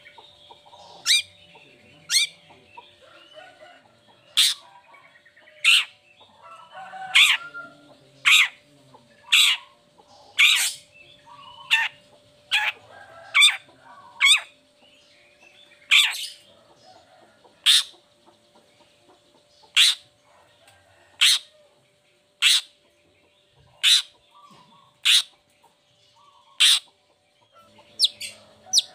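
Long-tailed shrike (cendet) giving a long series of short, sharp harsh calls, about one every second or so, with a faint steady hum underneath.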